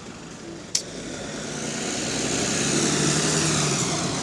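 Bus engine and tyres passing at the roadside, swelling to a peak about three seconds in and then fading, with a short click about a second in.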